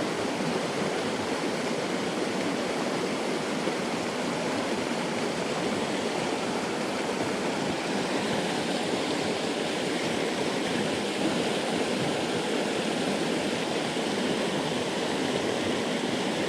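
Fast-flowing headwater stream rushing steadily, an even hiss of running water.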